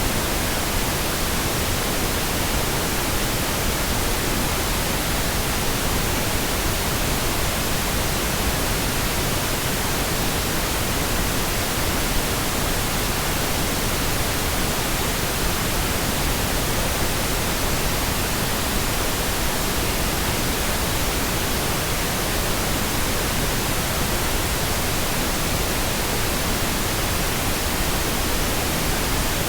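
Steady, unchanging pink noise: an even hiss across the whole range, the kind used for breaking in headphones.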